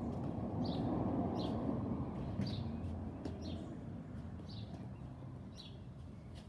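A small bird chirping over and over, one short high call about every second, over a low outdoor rumble that fades after the first few seconds.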